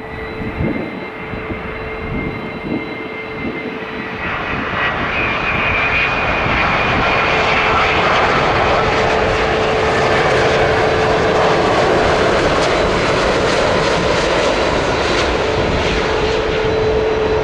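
Jet engines of a Boeing 787-10 arriving on final approach: a dense engine rush that grows louder over the first six seconds, then holds steady, with a steady hum and a fainter high whine over it.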